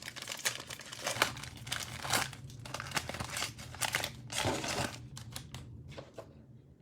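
Plastic cellophane wrapper of a Prizm Draft Picks football cello pack crinkling and tearing as it is handled and opened by hand. The rustling is irregular and dies down about five seconds in.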